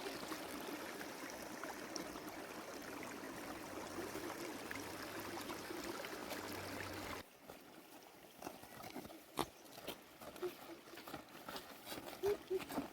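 Spring water trickling steadily, cut off suddenly about seven seconds in. After that, scattered light knocks and taps.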